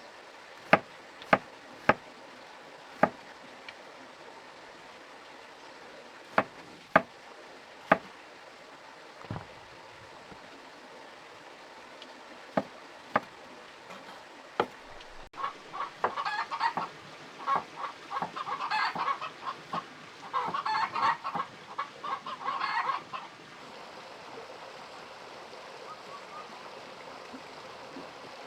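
A dozen or so sharp single knocks spaced irregularly through the first half, then chickens clucking in a busy run of calls for about seven seconds.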